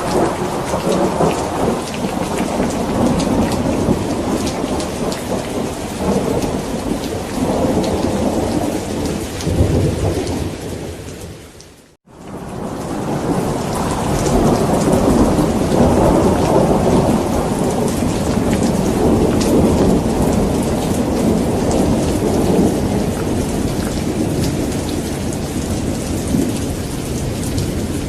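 Rain falling steadily with long, rolling rumbles of thunder. About 12 seconds in, the whole storm fades out to a brief silence and then fades back in, with a long swell of thunder rumbling over the rain.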